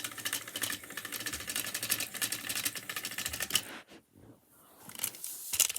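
Battery-powered toy train engines running on the track, their motors and gears making a rapid, even clicking clatter that stops about four seconds in.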